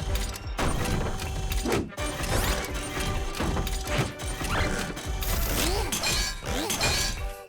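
Cartoon sound effects of track repair work: a run of clanks, knocks and ratcheting mechanical noises over background music.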